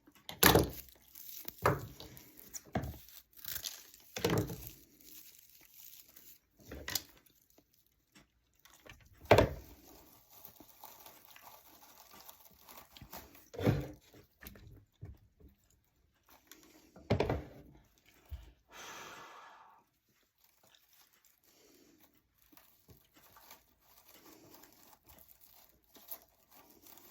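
Craft hay rustling and crinkling as it is handled, cut and pressed into place, with irregular knocks and clicks of tools and the truck being set down and moved.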